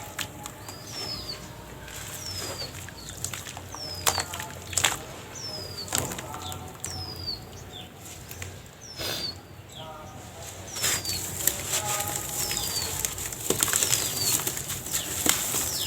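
Dry sand-cement shapes crumbling, with sharp cracks as pieces break and a grainy pattering of falling sand. The pattering grows denser and louder about two-thirds of the way through.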